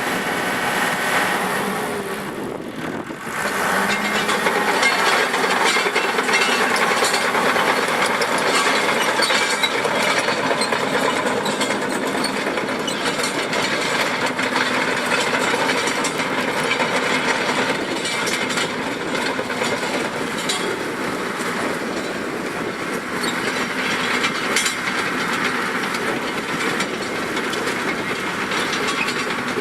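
Cat D4G LGP crawler dozer's diesel engine running, with a continuous clanking and rattling that fits its steel tracks moving. The level dips briefly about two and a half seconds in, then comes back louder.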